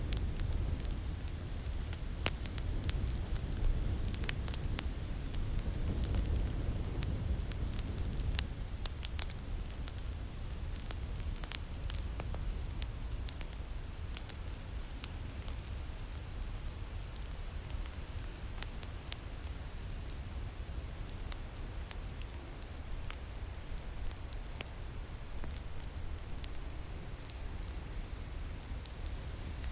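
Wood fire crackling with scattered sharp pops over a steady low rush of winter wind.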